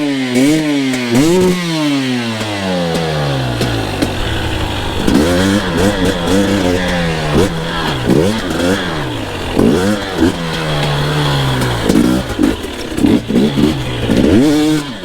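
Two-stroke dirt bike engine under a rider: its pitch falls over the first few seconds as the throttle comes off, then rises and falls again and again in quick revs from about five seconds in.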